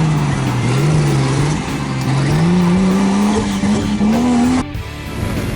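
Off-road 4x4 engine revving under load, its pitch dipping and then climbing steadily. The sound cuts off abruptly near the end.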